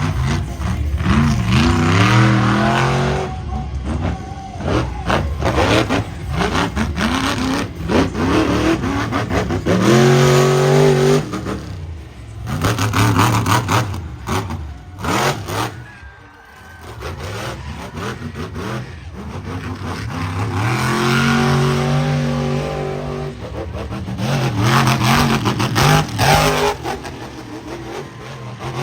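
Monster truck engine revving hard in repeated throttle bursts, its pitch climbing each time, with sharp bangs and clatter in the lull between the revs.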